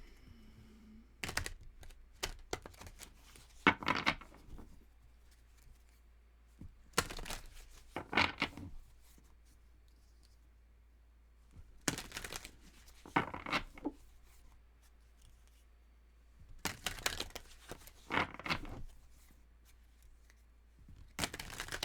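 Tarot cards being shuffled by hand: papery rustling and slapping in bursts of about two seconds, repeated roughly every four to five seconds with short quiet gaps between.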